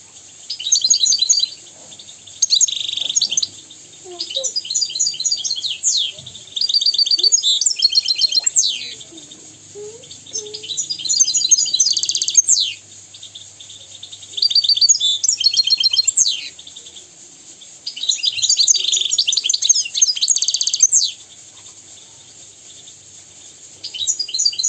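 European goldfinch singing in phrases of rapid twittering trills and quick sweeping notes, each phrase a second or three long with short pauses between.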